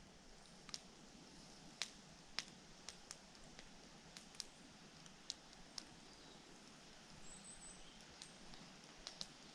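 Wood campfire crackling quietly, with sparse, irregular sharp pops from the burning wood.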